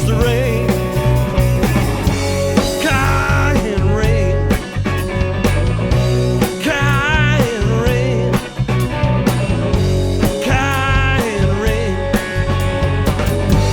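Rock song in an instrumental passage: drums and bass under a wavering lead melody, with no lyrics sung.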